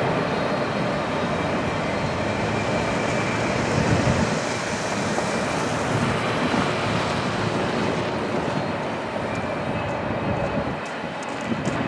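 Freight train rumbling away into the distance and slowly fading, just after it has cleared the crossing. Around the middle, a pickup truck drives past over the gravel road.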